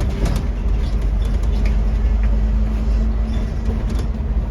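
Scania N230UD double-decker bus heard from inside: the five-cylinder diesel engine running with a steady low rumble and a constant hum, plus a few light clicks.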